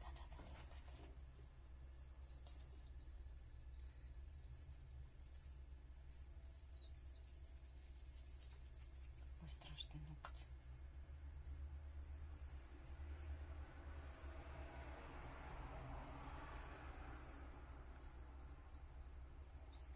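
Crickets chirping: a run of short, high, evenly spaced chirps, about two a second, that stops for a few seconds about a third of the way through and then starts again. A low steady hum sits underneath.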